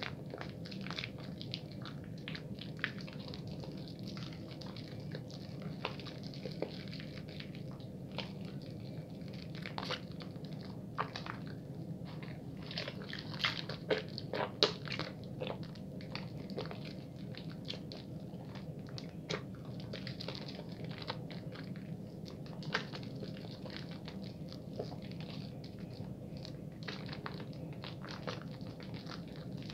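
Bar soap being lathered at a fairly quick pace: a steady stream of small wet clicks and pops from the soap and lather, busiest around the middle.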